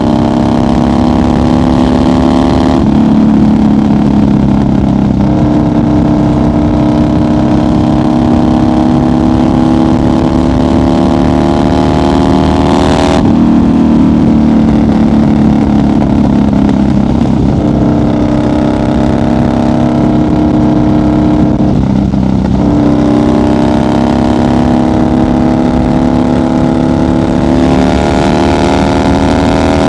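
1990 Harley-Davidson FXR's Evolution V-twin running at highway speed under the rider. Its pitch climbs gradually and changes abruptly three times, at about 3, 13 and 22 seconds in, as the throttle or gear changes.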